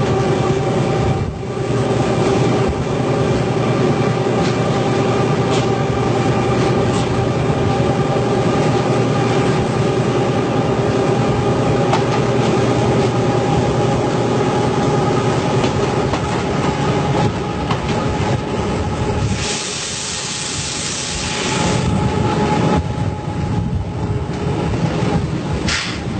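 A train running along the track, with a steady droning hum and rail noise. About twenty seconds in, a loud hiss lasts for about two seconds.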